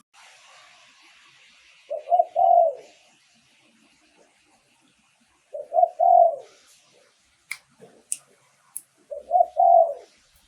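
Spotted dove cooing: three phrases a few seconds apart, each two short notes followed by a longer one. This is the bird's decoy call, used to lure wild doves.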